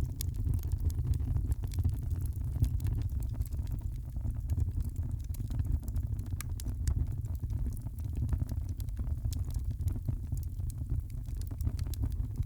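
Wood fire crackling in a fireplace: frequent small, irregular pops and snaps over a steady low rumble of the flames.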